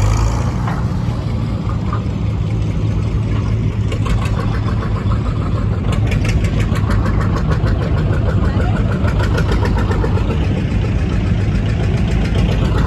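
A pulling tractor's engine running loud and steady, with a fast, even pulsing that stands out from about four to ten seconds in.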